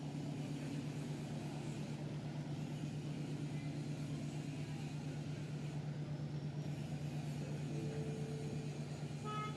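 A large engine running steadily, a constant low hum with a fast, even throb, over general harbour background noise.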